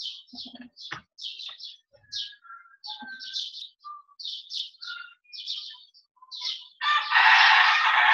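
A small bird chirping in quick, short, high calls, with a few brief whistled notes among them. About seven seconds in, a loud rushing burst of noise lasts about two seconds and is the loudest sound.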